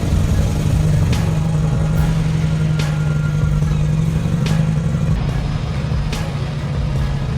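A vehicle engine running steadily, with sharp ticks about every second and a half.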